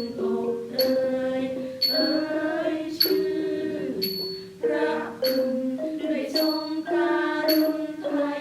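Thai classical ensemble playing a slow melody: sustained pitched lines that step from note to note, with a sharp, bright metallic stroke about once a second keeping the beat.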